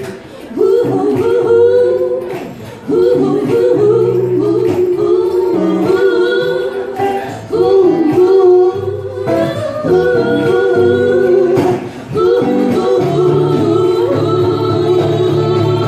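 Music: singing in long phrases with no clear words, over sustained low notes.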